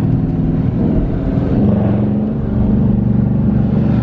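Car engine and exhaust droning under load on a climb, with the note shifting about one and a half seconds in.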